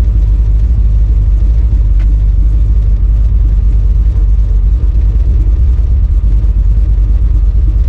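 Chevy 350 small-block V8 with an aftermarket cam and flat-top pistons, idling steadily with no revving.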